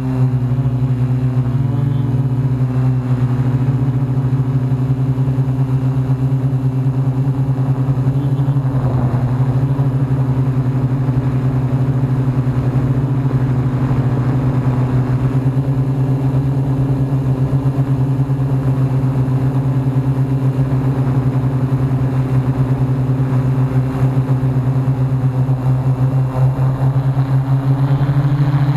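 Hexacopter's motors and propellers humming steadily at a nearly constant pitch, with strong wind buffeting the microphone underneath.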